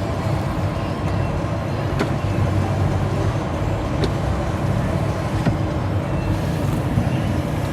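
Steady low hum inside the cab of a 2018 Ford F-150 King Ranch, the engine idling with the climate fan running, and a few faint clicks.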